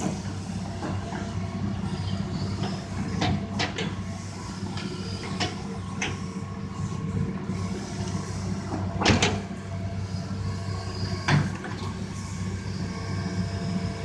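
Tractor engines running with a steady low hum, with scattered knocks and clanks; the loudest knock comes about nine seconds in.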